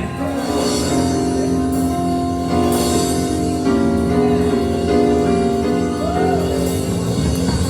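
Church keyboard playing sustained, held chords that change every second or so, backing a gospel revival service.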